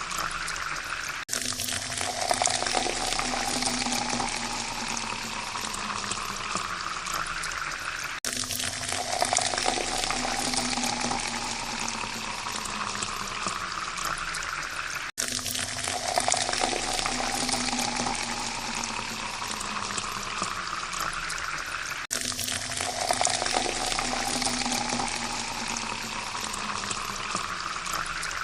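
Water pouring steadily into a glass, with a ringing tone that rises in pitch as the glass fills. The pour cuts off and starts again about every seven seconds.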